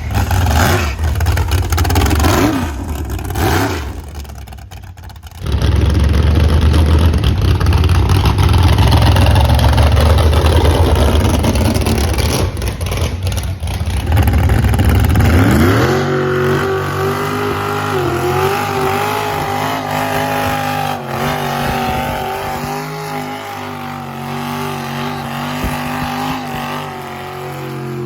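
Crown Vic's 10.3-liter big-block V8 running hard in a burnout: a loud low rumble, then about halfway through the revs climb and hold high and steady while the rear tyres spin.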